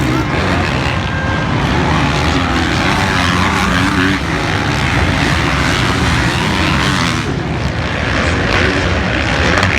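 Motocross bike engine running hard, loud and steady throughout.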